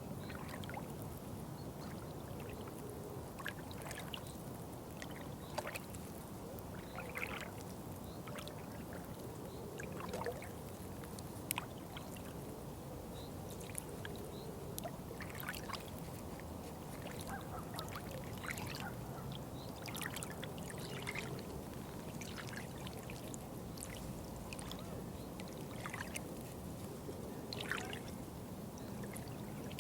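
Water trickling and splashing steadily, with a scatter of short, irregular higher clicks and plinks over the continuous low rush.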